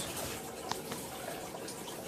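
Aquarium water trickling steadily, with a faint tick or drip about three quarters of a second in.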